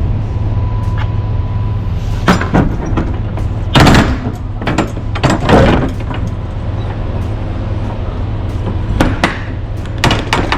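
Clanks and bangs of a semi-trailer's rear door locking gear as the door handles and lock bars are swung and latched shut: a few sharp metal knocks, loudest about four and five and a half seconds in, over a steady low rumble.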